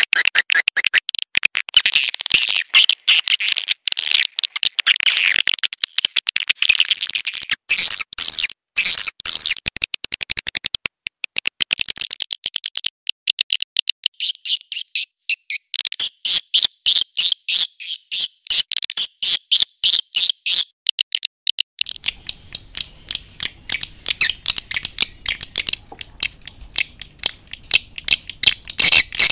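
Recorded swiftlet lure call: edible-nest swiftlets twittering in fast, high-pitched chirps and clicking trills, the kind of sound played to draw swiftlets into a nest house. A faint low hum joins about two-thirds of the way through.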